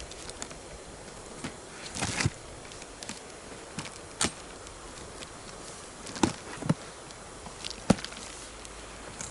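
Wood campfire crackling, with a handful of sharp pops and snaps, over the steady rush of a river.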